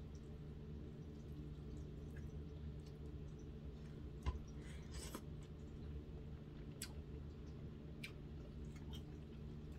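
Close-up eating sounds: a mouthful of cooked collard greens taken off a plastic fork with a sharp click about four seconds in, then soft, wet chewing with a few small clicks. A steady low hum sits underneath.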